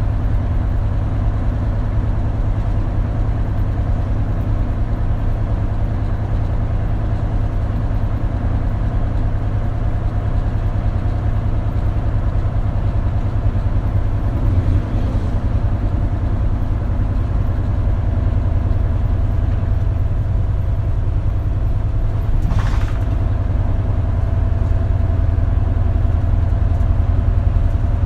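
Isuzu KL-LV280L1 city bus engine running steadily, a constant low rumble with a faint steady hum above it. A single short clack sounds near the end.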